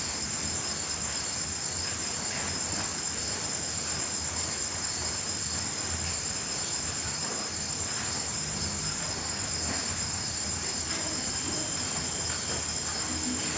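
Crickets trilling in a continuous high-pitched chorus that holds steady throughout, over a soft even hiss.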